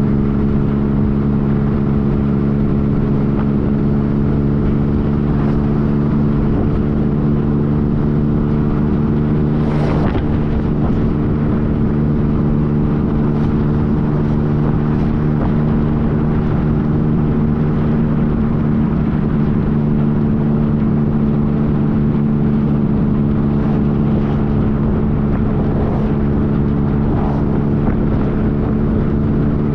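Yamaha FJ-09 motorcycle's three-cylinder engine running at a steady speed, one constant engine note that neither rises nor falls, over a low rushing noise. A brief click sounds about ten seconds in.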